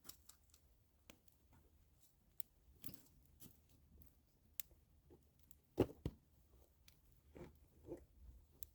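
Scattered small clicks and taps, like objects being handled, with two louder knocks close together about six seconds in.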